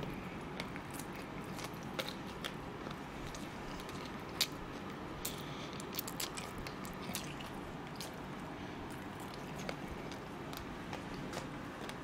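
A man chewing and biting into fried chicken close to the microphone, with scattered small crunches and wet clicks, the sharpest about four and a half seconds in.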